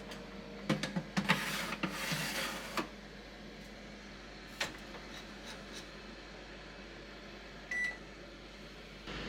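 Kitchen handling: a few knocks and clicks in the first three seconds and another click near five seconds. Then a single short electronic beep from an oven's control panel sounds near eight seconds over the appliance's steady hum.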